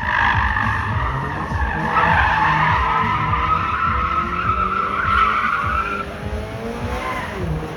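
A car's tyres squealing in a sustained skid over its engine. The squeal fades about six seconds in, leaving the engine running with rising revs.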